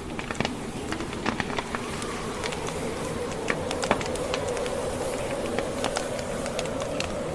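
Wood fire burning: irregular sharp crackles and pops from the logs over a steady low rumble, with a wavering buzzing tone underneath.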